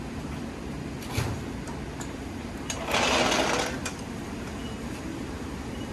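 A single knock, then a handheld power tool whirring for about a second, the loudest sound here.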